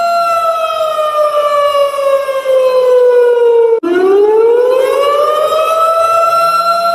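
A siren sounding as an alarm, its steady tone sliding slowly down in pitch for almost four seconds. It cuts out for an instant, then swoops back up to its first pitch and holds there.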